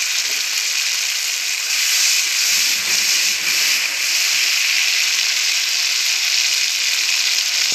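Tomato and onion masala gravy sizzling steadily in a hot wok as a wooden spatula stirs it.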